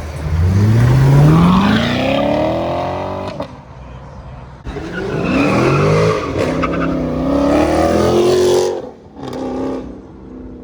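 Car engine accelerating hard away, pitch climbing steadily for about three seconds, then cutting off. About a second later, another bout of hard acceleration comes, with the engine pitch rising in several runs before dropping away near the end.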